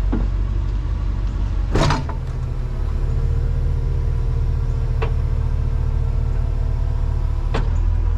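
Vehicle engine idling steadily, with one loud sharp thump about two seconds in, like a vehicle door shutting, and two lighter clicks later on.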